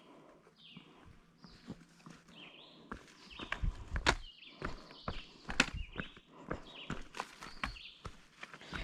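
A hiker's footsteps on a forest trail: a run of irregular steps, with a couple of louder footfalls about four and five and a half seconds in.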